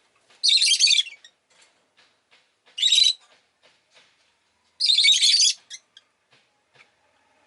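Rosy-faced lovebird calling in three loud bursts of rapid, high-pitched chirps, each under a second long and about two seconds apart, with faint ticks between them.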